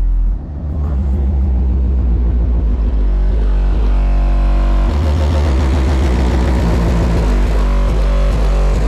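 Deep bass notes played loud through an aftermarket car audio system with the bass control turned up: long sustained low notes that step from pitch to pitch, with a short drop in level about half a second in.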